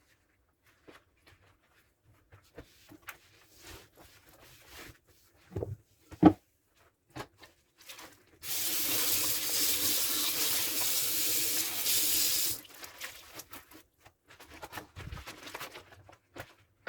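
Dishes being washed by hand at a kitchen sink: light clinks and knocks of dishware being handled, with a sharp knock about six seconds in, then the tap runs steadily for about four seconds before the handling sounds resume.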